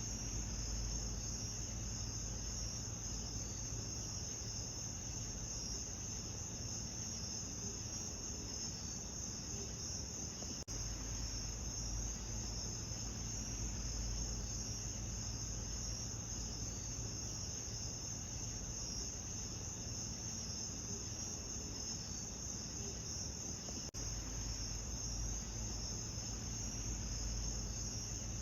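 A steady chorus of crickets chirring in a high, even band over a low rumble, with brief splice clicks about eleven and twenty-four seconds in where the loop restarts.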